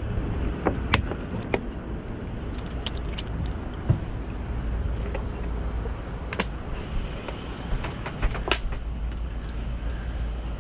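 A steady low rumble with sharp clicks and knocks scattered through it, the kind of sound made by handling things at work.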